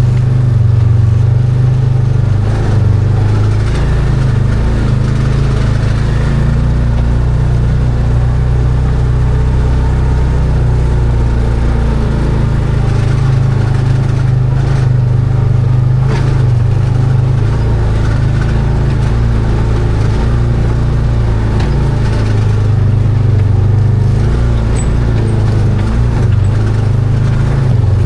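Arctic Cat Wildcat 1000 side-by-side's V-twin engine running steadily, its pitch rising and falling a little, with a few sharp knocks near the middle.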